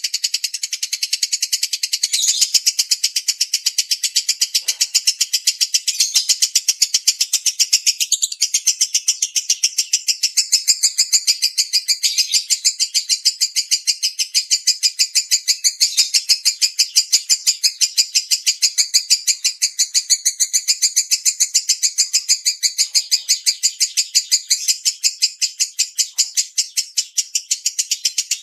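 Lovebird in a long, unbroken 'ngekek' chatter: rapid shrill chirps repeated at about four a second, with no pause.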